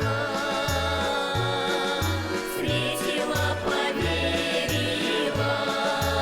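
Russian folk song played by a garmon (Russian button accordion) ensemble, with a bass line bouncing between notes about twice a second.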